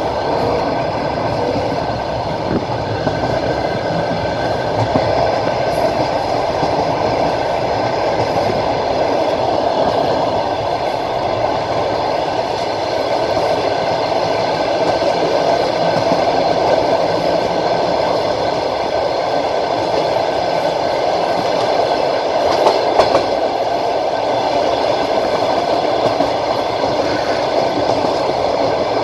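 Steady rolling noise of a moving train heard from inside the carriage: wheels running on the rails, with a few sharper knocks about two-thirds of the way through.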